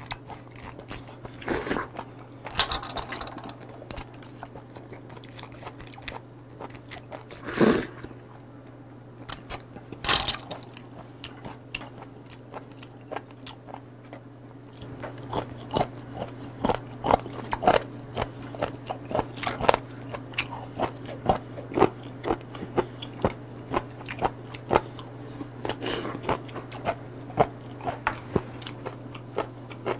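Close-miked chewing of raw shellfish sashimi, candle whelk and scallop: a series of wet mouth clicks and bites. The first half has a few louder bites, and about halfway through it settles into steady chewing of about two clicks a second.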